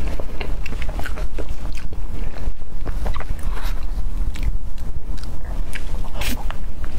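Close-miked chewing of soft taro-paste mille crepe cake and cream: small wet mouth clicks and smacks at an irregular pace, over a steady low rumble.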